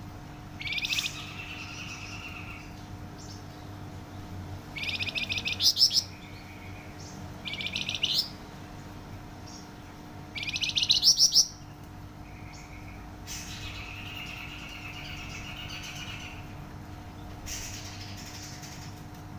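Flamboyan songbird singing: four short, fast rapid-fire trills that rise in pitch, the two in the middle the loudest, followed by two longer, softer warbling phrases. A faint steady hum runs underneath.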